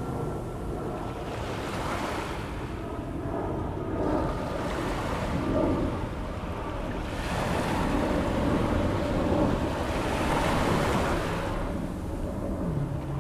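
Ocean waves breaking and washing up the beach on an incoming tide, the surf swelling louder a few seconds in and again for a long stretch past the middle before easing.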